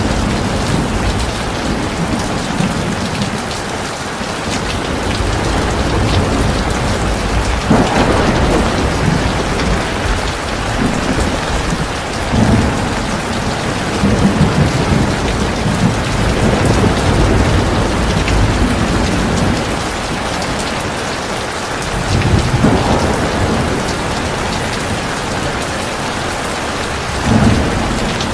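Heavy, steady rainfall hissing on surfaces, with low rumbles of thunder rolling in several times.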